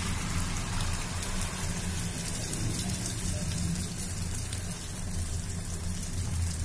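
Egg and vegetable omelette batter sizzling and crackling in hot oil as it is poured into a nonstick pan, over a steady low hum.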